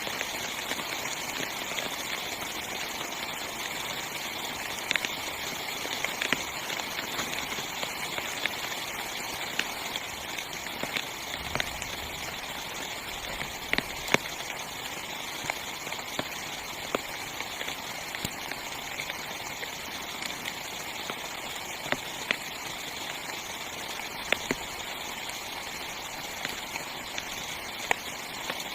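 Heavy rain on a small tent's fabric: a steady hiss of rainfall with louder single drops tapping at irregular moments.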